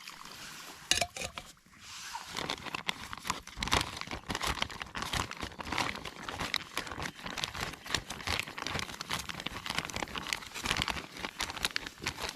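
Continuous crinkling and crackling, as of packaging or a food pouch being handled, starting about two seconds in after a single sharp click.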